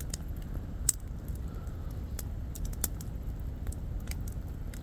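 Light, irregular clicks and taps of a spoon working in a food pouch while eating, over a steady low rumble.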